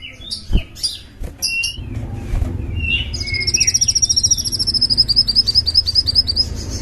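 Small songbird singing: scattered high chirps and short whistled notes, then from about three seconds in a fast trill of repeated high notes, roughly eight a second, that runs on. A dull low thump comes about half a second in, and a low rumble lies underneath.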